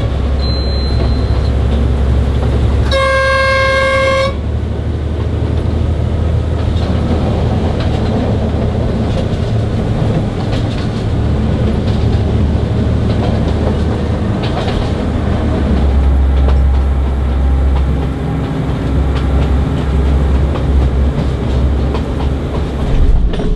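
A diesel locomotive's horn sounds one blast of about a second, a few seconds in, over the steady low running of the engine and the train on the rails, heard from inside the driver's cab.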